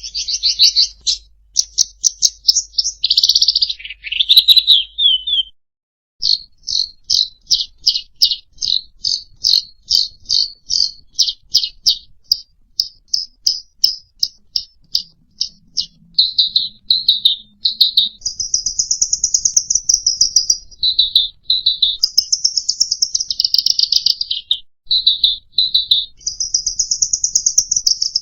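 Songbird song on a masteran tutor track for cage birds: fast series of sharp high chirps, several a second, with a brief break about five seconds in. It then turns to longer buzzy trilled phrases alternating with short, lower notes.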